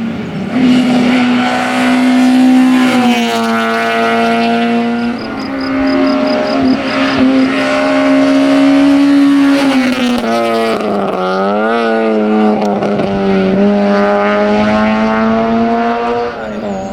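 Citroën Saxo competition car's engine pulling hard at high revs, its pitch shifting a few times as the revs change, with a sharp drop and recovery about eleven seconds in.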